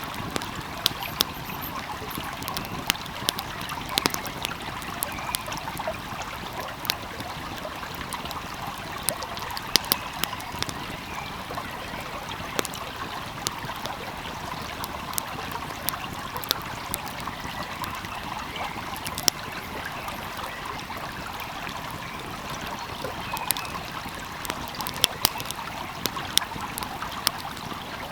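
Wood fire crackling with irregular sharp pops over the steady rush and trickle of a flowing stream.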